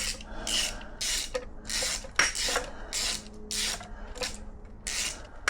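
Socket ratchet clicking in short rasping bursts, about two a second, as it is swung back and forth to wind out an engine bolt that has just broken free.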